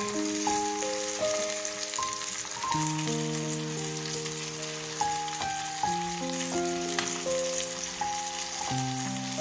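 Shrimp and chopped onion sizzling as they fry in hot oil in a pan, a steady hiss throughout. Background music of held notes changing every second or so plays over it.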